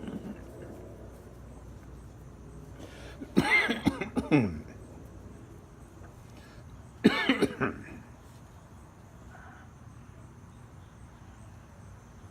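Bulldog giving two short, harsh vocal bursts about three and a half seconds apart, the first longer and falling in pitch.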